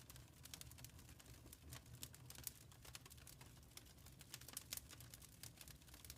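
Wood fire crackling in a fireplace: faint, irregular quick snaps and pops over a steady low rumble.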